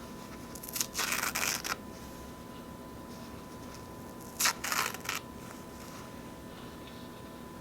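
Paper towel being torn close to the microphone: two short, soft rips, about a second in and about three and a half seconds later.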